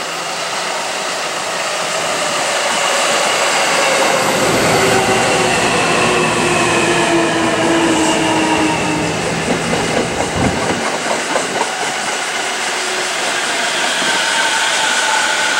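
Commuter electric train running along the platform, its motor whine falling in pitch as it slows. The wheels click over rail joints for a moment about ten seconds in.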